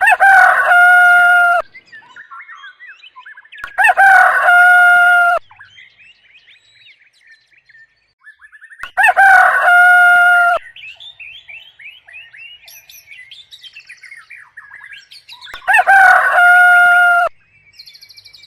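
Rooster crowing four times, each crow about a second and a half long, with faint bird chirping in the gaps between crows.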